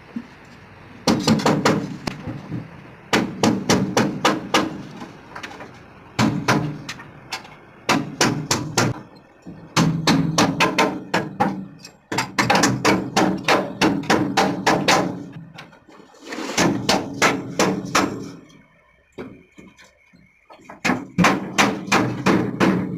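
Hammers striking shuttering formwork in rapid runs of blows, several a second, each run a second or two long with short pauses between, as two workers hammer side by side.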